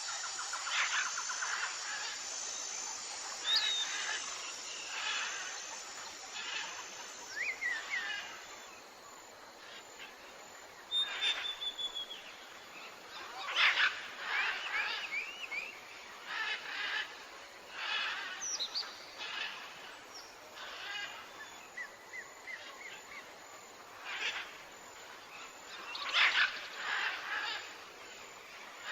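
Several wild birds chirping, trilling and calling on and off, in a dawn-chorus ambience over a steady background hiss.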